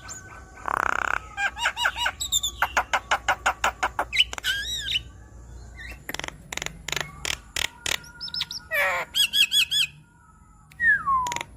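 Javan myna singing a long, varied song: harsh squawks, fast runs of clicking notes and repeated rising-and-falling whistles, with a falling whistle near the end.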